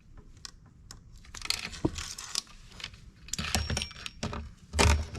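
Metal saw chain and guide bar clinking and rattling as they are handled and fitted onto a chainsaw, with scattered small clicks and a louder knock near the end.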